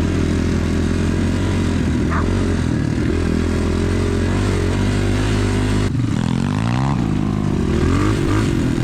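Enduro pit bike engine running under way, heard close up. About six seconds in the note drops for a moment, then the revs rise and fall several times as the throttle is worked.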